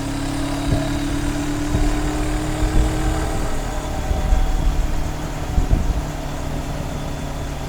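Honda CB500X's parallel-twin engine running at a steady note with heavy wind rumble on the microphone. The engine tone fades out about three seconds in, leaving mostly the wind and road rumble.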